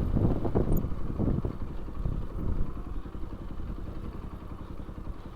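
Bajaj Pulsar NS200's single-cylinder engine running, with clatter in the first second or so, then dropping to a quieter, steady, even beat as the bike slows.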